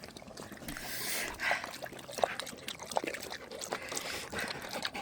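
Water splashing and trickling in a dog's water bowl, with many small irregular splashes and clicks.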